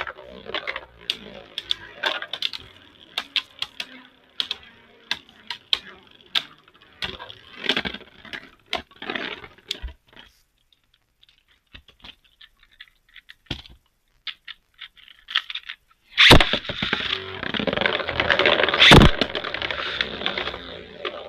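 Plastic Beyblade Burst spinning tops (Zeeg Excalibur and God Valkyrie) clattering and knocking against each other and the stadium walls in rapid sharp clicks. About ten seconds in they fall to a few light clicks. About sixteen seconds in, a loud stretch of spinning, scraping and clashing starts, with one hard knock near the end.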